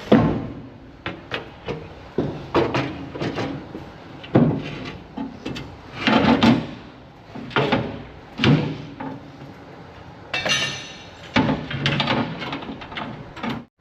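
Irregular knocks and clanks of tools and parts being handled during repair work on a bulldozer, about a dozen over the stretch; one about ten seconds in rings briefly.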